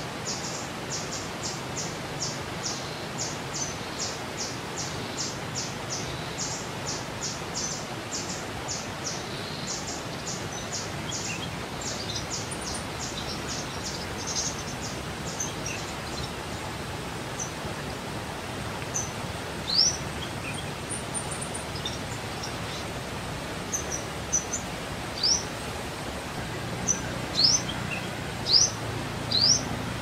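Birds chirping: a steady run of short high chirps, two or three a second, through the first half, then a few single quick rising whistles in the second half, over a steady background hiss.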